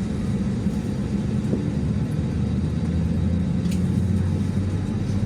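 Cabin noise inside an Airbus A321: a steady low rumble from the engines and airframe, the deepest part growing a little stronger in the second half.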